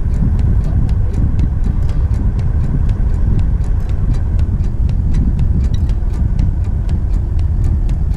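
4x4 vehicle driving: a steady, heavy low rumble with a fast, even run of clicks over it.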